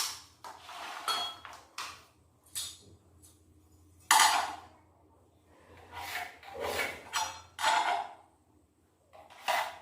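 A string of irregular knocks and clatters, like workpieces and tools being picked up, set down and tapped while a cabinet part is assembled. The loudest come right at the start and about four seconds in.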